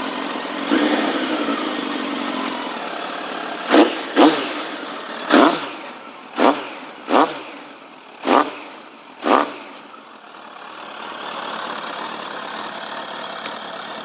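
Suzuki GSF1200 Bandit's inline-four engine idling through a Remus aftermarket exhaust can. It is blipped lightly about a second in, then given seven quick, sharp throttle blips in the middle of the stretch before settling back to idle.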